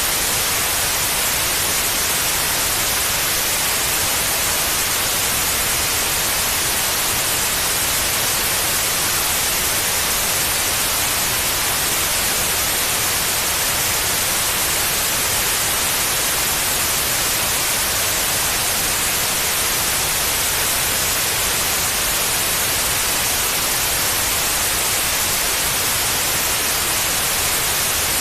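Steady white noise: an even, unbroken hiss across the whole range, with no change in level, used as a sleep sound for babies.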